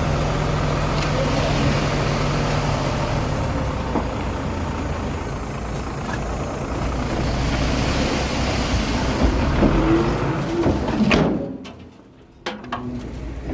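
Diesel engine of a small bulldozer running steadily at work. About eleven seconds in the sound drops away sharply, then comes back more quietly.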